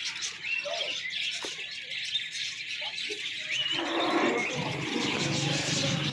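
Many small caged birds chirping together in a dense, continuous chatter, with short rising chirps standing out above it.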